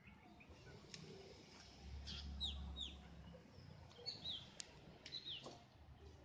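Birds calling faintly: short, falling chirps, some in quick pairs, scattered throughout. A low rumble is heard briefly about two seconds in.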